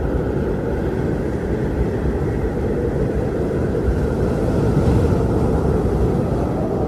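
Strong wind blowing: a steady, deep rushing noise with no let-up.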